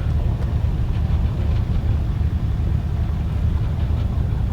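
Mercedes-AMG V8 engine running steadily, a deep, even sound with no revving.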